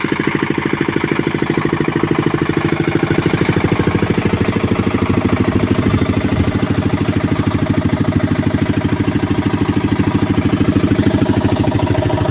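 A 10 kW generator's engine running steadily on a test run after servicing, with an even, rapid beat from its firing strokes.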